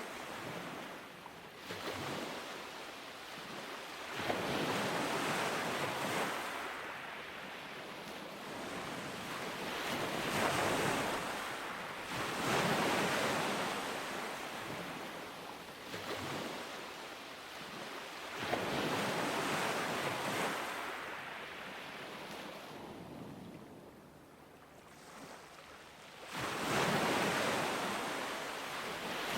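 Ocean waves breaking and washing up a beach, the surf swelling and fading every few seconds, with a quieter lull shortly before a last wave comes in near the end.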